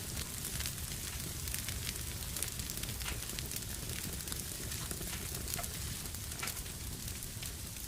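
Wood fire burning in a fireplace: a steady hiss and low rumble with many sharp crackles and pops scattered throughout.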